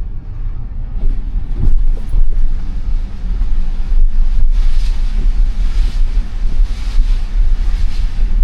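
Road and tyre rumble from a Tesla Model Y on a snow-covered road, heard inside the cabin, with no engine note since the car is electric. A hiss swells up from about halfway through, and there are a few soft knocks early on.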